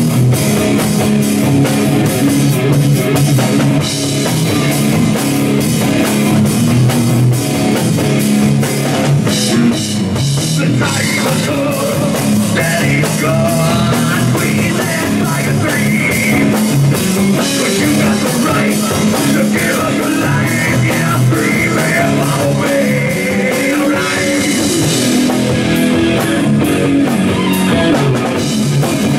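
A rock band playing live: electric guitar and drum kit, with a voice singing through the middle part.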